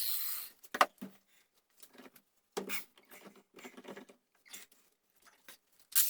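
A high-speed power tool spins down in the first half second, then small scattered knocks, taps and rustles of handling a workpiece; near the end the tool starts up again with a steady high-pitched whine.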